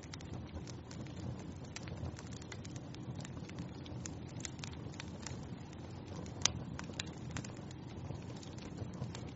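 Fire burning in a fireplace: a steady low rumble of flames with frequent small crackles and pops, and one sharper pop about six and a half seconds in.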